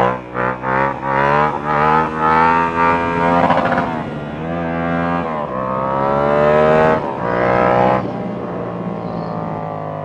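Sport motorcycle engine under hard acceleration, its pitch climbing in first gear, dropping at an upshift about four seconds in, and climbing again. After a second shift near the seven-to-eight-second mark it settles into a steadier, lower note.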